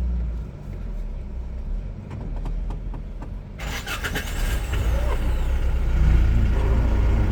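A vehicle driving, with a steady low engine and road rumble. About halfway through, a louder hiss of wind or road noise comes in abruptly and stays.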